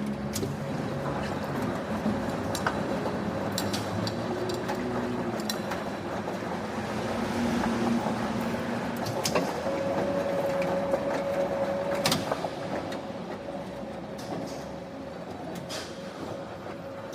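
Factory machinery running with a steady hum and a held mechanical tone, with scattered sharp metallic clicks and knocks.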